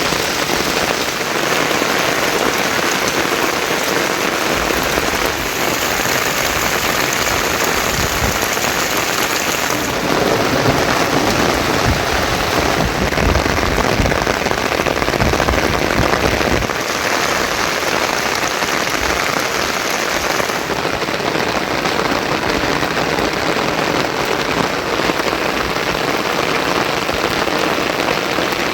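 Heavy monsoon rain falling in a steady, dense hiss, its tone shifting abruptly several times.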